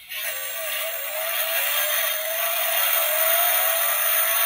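Electronic engine-revving sound effect from a toy Tesla Model X's small built-in speaker, set off by pressing the car down. It starts suddenly, sounds thin with no bass, and its pitch climbs slowly as the recorded engine revs up.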